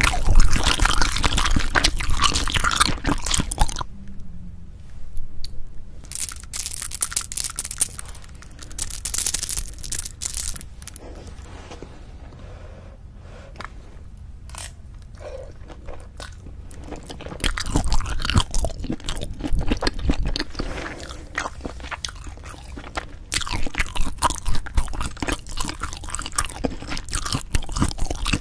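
Close-miked eating of braised spicy chicken with cheese (jjimdak): chewing and biting with wet mouth clicks. It is dense for the first four seconds, thins to scattered clicks through the middle, and picks up again about 17 seconds in.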